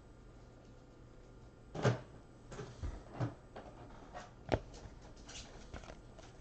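Handling of trading cards and packs on a table: a few light, sharp knocks, the loudest about two seconds in and another about four and a half seconds in, with faint rustling between them.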